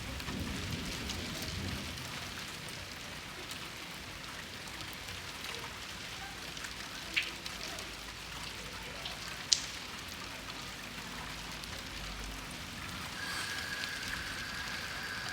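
Steady heavy rain falling during a thunderstorm, with two sharp drip taps about seven and nine and a half seconds in. Near the end a steady high whistle-like tone starts.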